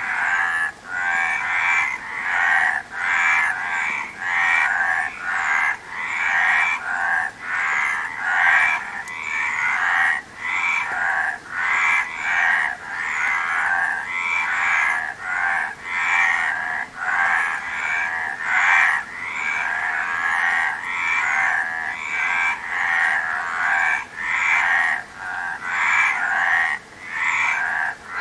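Frogs croaking, repeated croaks coming roughly once a second without a pause.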